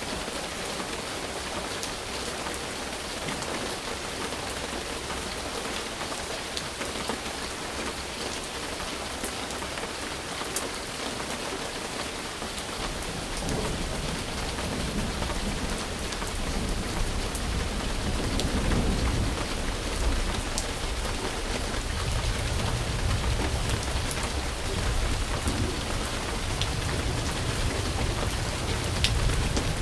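Steady rain pattering, with scattered sharp drop ticks. About halfway through, a low rumble of thunder comes in and swells, and the sound grows louder.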